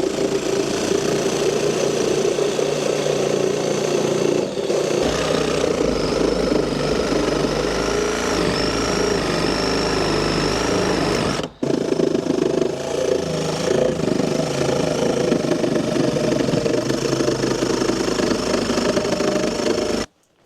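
A power saw running steadily as it cuts through old wooden framing. It stops briefly a little past halfway, then runs again until it cuts off just before the end.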